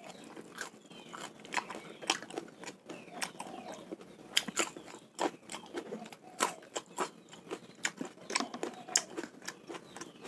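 Close-up chewing and crunching of raw sun-dried salted snakehead fish, and bites of a fresh red chili: irregular sharp crunches, a few a second.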